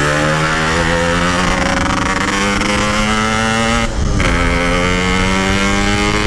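Yamaha RX-King 135 cc two-stroke single with a packing-power exhaust accelerating through the gears: its pitch climbs steadily, dips briefly about four seconds in as it shifts up, then climbs again.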